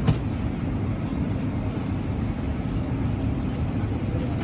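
Steady low rumble of a jet airliner's engines and airflow, with a brief knock just at the start.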